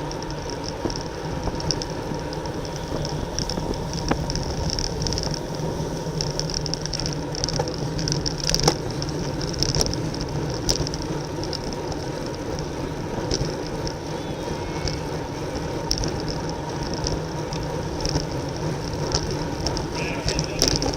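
Racing bicycle rolling at speed: a steady rush of wind and tyre noise, with a high, pulsing hiss and a few sharp clicks.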